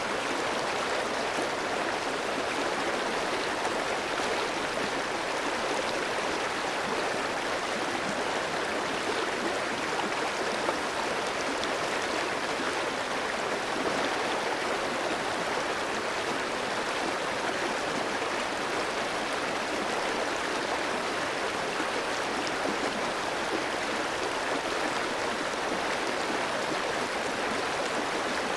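Clear stream running steadily over rocks, a continuous rushing and burbling of water.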